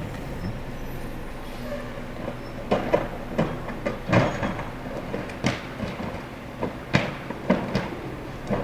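Garbage truck's diesel engine running steadily, with a string of sharp, irregular metallic clanks and knocks starting about three seconds in.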